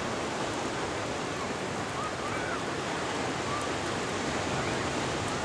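Ocean surf making a steady, continuous wash of noise.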